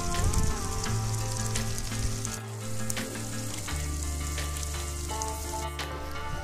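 Chicken and shallots sizzling in a metal pan, with a spoon stirring in spice powder; background music with held low notes plays underneath.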